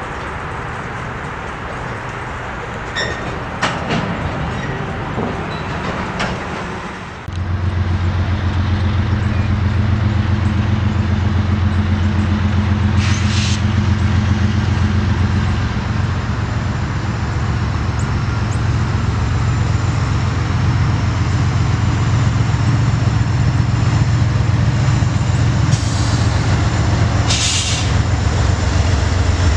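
Freight cars rolling past on steel wheels. After a cut, Norfolk Southern diesel-electric freight locomotives approach and pass with a loud, steady low engine drone. Two brief high-pitched bursts are heard, about halfway through and near the end.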